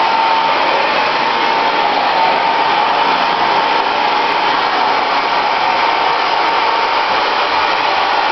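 Hair dryer running steadily: an even rush of blown air with a steady whine.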